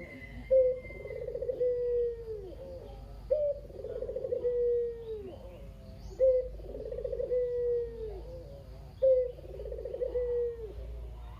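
Ringed turtle dove (local puter dove) giving its kugeru coo, four times at about three-second intervals: each call is a short sharp note, then a rolling trill, then a long drawn-out note that falls at the end. Faint higher chirps of other birds sit behind it.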